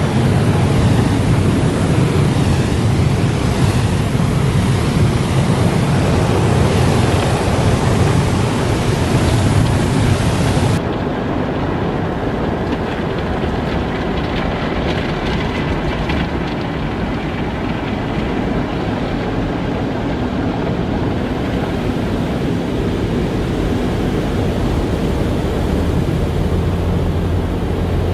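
Car wash running: a loud, steady rushing noise over a low rumble. About ten seconds in, the sound changes abruptly, losing its hiss and turning duller and a little quieter.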